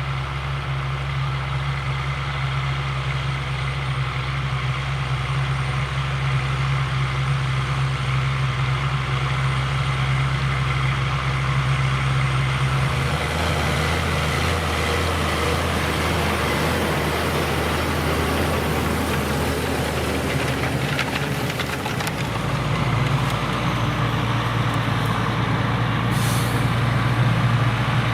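Claas Xerion 5000 tractor's V8 diesel engine running steadily under load. Its note shifts about halfway through and again later, and a brief hiss comes near the end.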